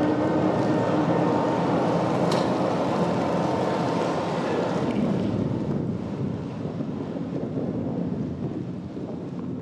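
Kurobe Gorge Railway narrow-gauge train rumbling across a steel arch bridge and slowly fading as it moves away, under a steady rushing noise of heavy rain and wind.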